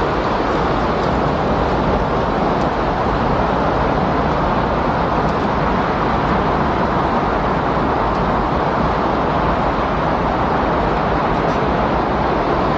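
Windstorm: strong wind blowing as a steady, even rushing noise with no gusts or breaks.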